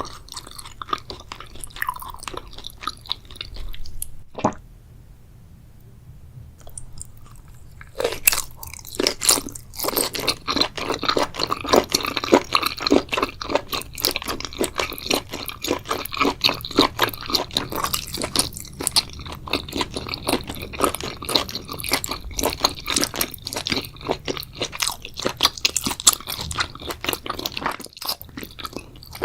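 Close-miked chewing and crunching of spicy seafood boil, mouth sounds in quick rapid strokes. A quieter lull falls about four to eight seconds in, with a single sharp click, then dense, loud chewing resumes.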